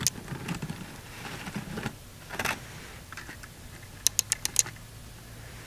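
Plastic Lego parts clicking and knocking as the model is handled, with a short scrape about halfway and a quick run of about five clicks near the end.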